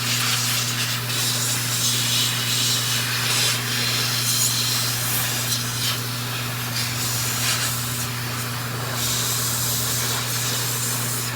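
Air blown over grooming scissors to clear them off, a hiss that swells and fades several times, over a steady low hum.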